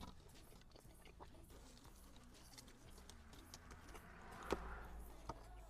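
Faint, close eating sounds: soft clicks and mouth noises of someone biting and chewing a burger, with one sharper click about four and a half seconds in and another near the end.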